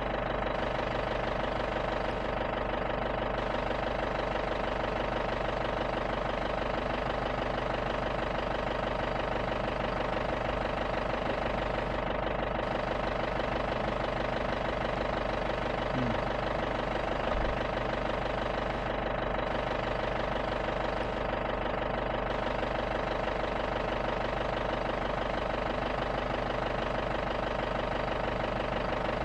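Safari jeep's engine running steadily with an even hum that does not rise or fall.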